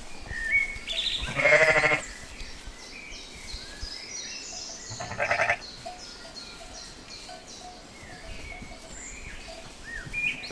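Sheep bleating twice: a long, wavering bleat about a second and a half in and a shorter one about five seconds in, with many short high chirps in between.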